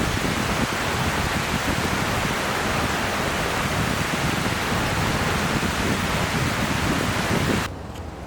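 River water rushing in a steady loud wash, which cuts off suddenly near the end to a much quieter background.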